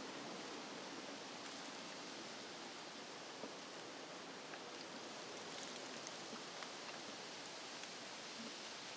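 Steady background hiss with a few faint, scattered clicks.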